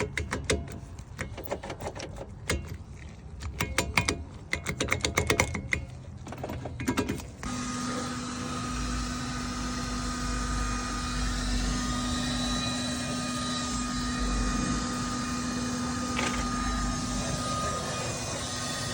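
Irregular clicking and knocking. About seven seconds in, a vehicle's steady running noise begins, with a constant droning hum.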